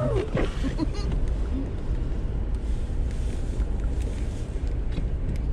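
Car running at low speed, a steady low rumble of engine and road noise heard inside the cabin, with a few short pitched sounds in the first half second.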